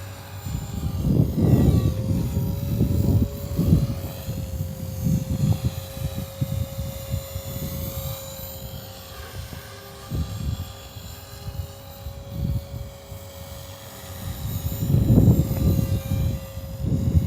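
Walkera V450D03 electric RC helicopter in flight, its rotors and motor giving a steady whine, pushed about by gusty wind. Wind gusts buffet the microphone with loud low rumbles, strongest about a second in and again near the end.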